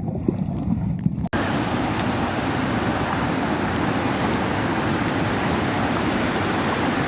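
Steady rush of a waterfall and fast-flowing stream water. For about the first second the water sound is duller, with small clicks in it; then it cuts abruptly to the full, even rush.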